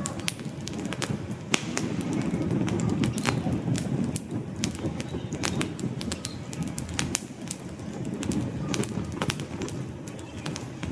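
Wood fire crackling, with many sharp irregular pops over a low rush of burning flames that swells a couple of seconds in and again near the end.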